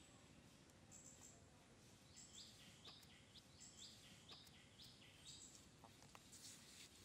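Faint bird calls: a run of short high chirps, each dropping in pitch, about two a second through the middle, over quiet outdoor background with a few faint light clicks.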